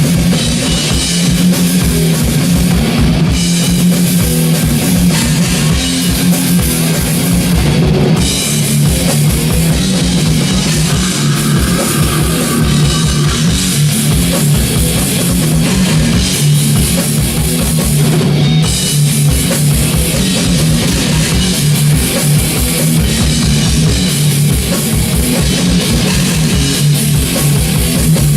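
Metal band playing live at full volume: distorted electric guitars and bass over a drum kit with rapid, relentless kick-drum strokes.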